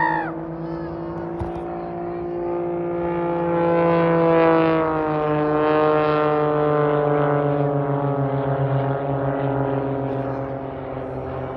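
Aircraft engine droning as it flies past. The sound grows to its loudest about four to six seconds in, its pitch slides slowly down as it passes, and it fades away near the end.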